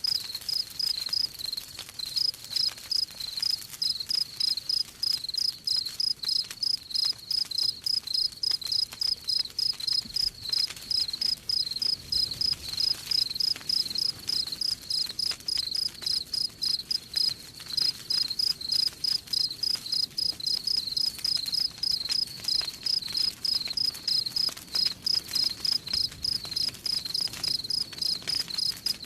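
Cricket chirping in a fast, steady, high-pitched rhythm of about three chirps a second, pausing briefly about two seconds in and again around seventeen seconds. Faint crackling of a wood fire sits underneath.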